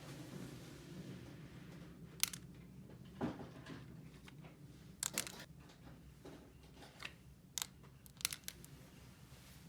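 Faint handling of small plastic toy pieces and packaging: a low steady background with about half a dozen short, scattered clicks and crinkles.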